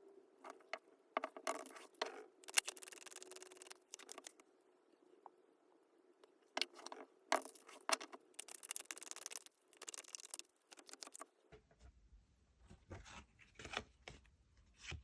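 Tarot cards being handled and shuffled: bunches of quick card clicks and rustling in separate spells, with a low hum coming in underneath after about twelve seconds.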